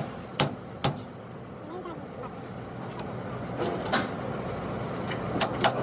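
Scattered sharp hammer blows on metal: two near the start, two about four seconds in and a quick cluster near the end, with faint voices underneath.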